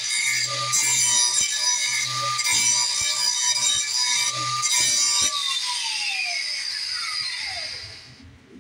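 Power grinder sharpening a steel mower blade, grinding in several short passes over its steady whine. About five seconds in it is switched off and its pitch falls as it spins down for about three seconds.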